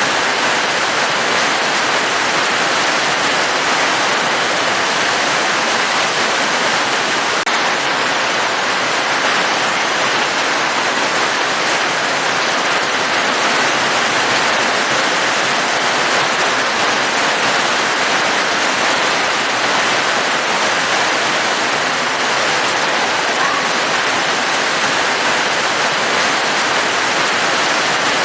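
Steady, even rain falling, a dense unbroken hiss with no single drops or changes standing out.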